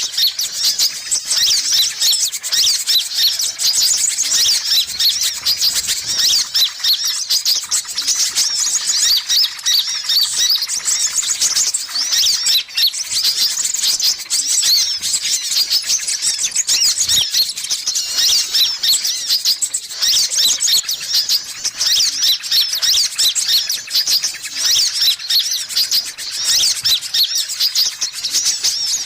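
Sunbirds calling: a dense, unbroken stream of quick, high chirps and squeaks overlapping one another, played as a bird-lure call.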